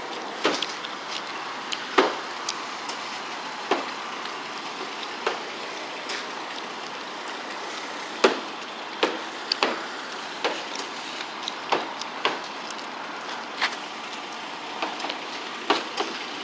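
Car being washed by hand: a steady hiss with irregular sharp clicks and knocks, about one every second or so.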